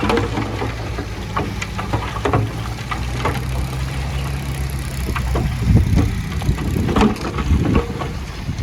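Diesel engine of heavy earthmoving machinery running steadily, with many sharp clanks and knocks of metal and rock over it. It grows louder and rougher for a couple of seconds past the middle.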